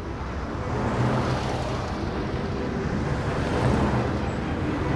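Steady road traffic noise: a continuous low rumble and hiss of vehicles passing, with no single event standing out.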